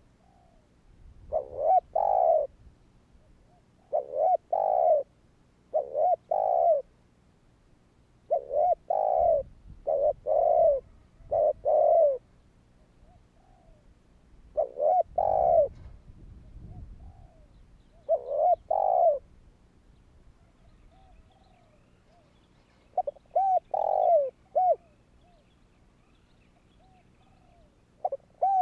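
Spotted dove cooing: repeated phrases of two to four short, low coos every two to three seconds, with a brief pause in the middle. Faint low rumbling noise sits under some of the phrases.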